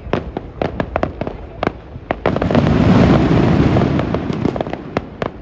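Fireworks going off: a rapid run of sharp bangs that swells, about two seconds in, into a dense, loud barrage of overlapping booms and crackle lasting a couple of seconds, then thins back to scattered bangs.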